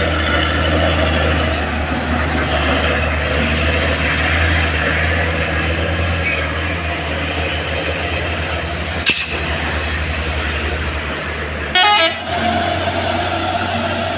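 Heavily loaded truck's diesel engine labouring up a steep climb, a steady low drone that pulses in its second half. A sharp click comes about 9 seconds in, and a short vehicle horn toot, the loudest sound, comes about 12 seconds in.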